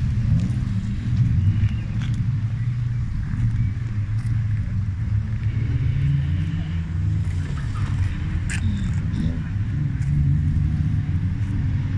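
Wreck-race cars' engines running on a dirt track, their revs rising and falling as they drive the course.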